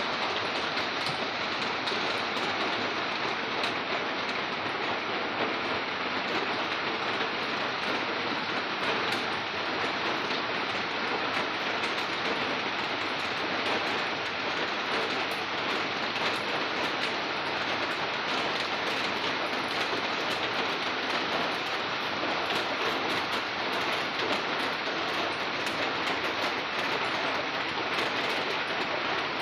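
Steady rain falling and pattering on surfaces, an even hiss with fine crackle throughout.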